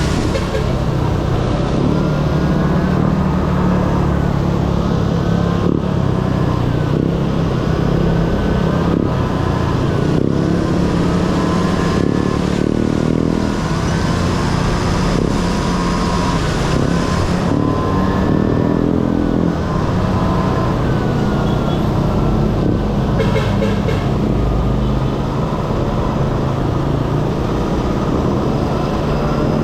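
Honda Dio AF18 scooter's small two-stroke single-cylinder engine running under way. Its pitch rises and falls again and again as the throttle opens and closes.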